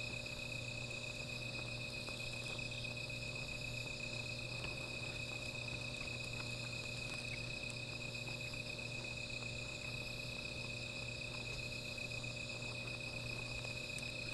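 A steady night chorus of crickets and other insects, trilling continuously at several pitches, the strongest a high pulsing trill. A low steady hum runs underneath, and a few faint ticks are heard.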